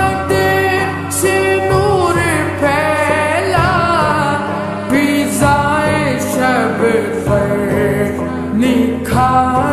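A song with a solo sung melody over instrumental accompaniment.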